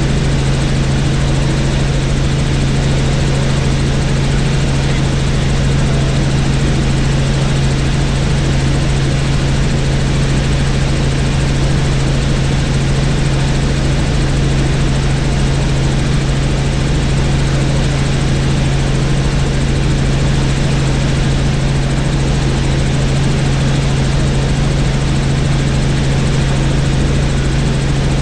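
Helicopter in steady flight: the rotor and engine make a strong, constant low drone under a dense rushing noise, with no change in pitch or level.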